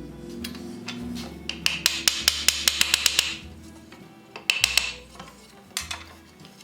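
Hand tool working wood: a run of quick, evenly spaced strokes or taps, loudest about two seconds in and again briefly near the end, over background music.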